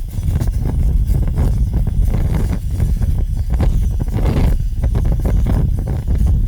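Large fire burning with a steady low roar and irregular crackling and popping.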